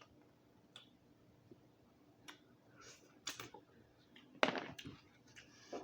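Close-miked eating of a boiled Dungeness crab: scattered short clicks, cracks and wet mouth sounds, with the loudest burst about four and a half seconds in.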